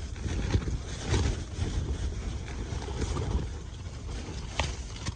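Lit camp stove burner running with an uneven low rumble under a pot of frozen water, with a single sharp click near the end.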